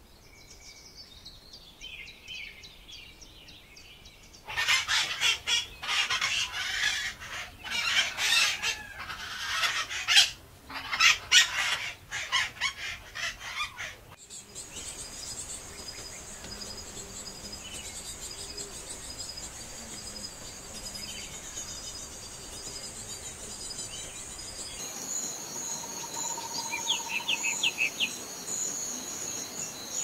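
Bird sounds from several recordings in turn. First come faint, falling chirps. At about five seconds in, roughly ten seconds of loud, rapid bird calls begin. From about halfway, a steady, high insect trilling with a pulsing rhythm takes over, with a few short bird notes near the end.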